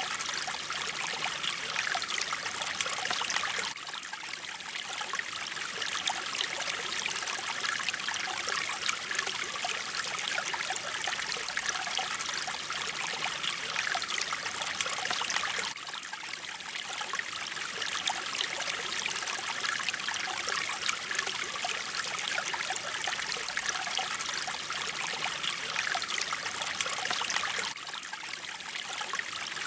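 Mountain stream water flowing steadily over rocks, an even rushing and trickling. The level dips slightly about every twelve seconds.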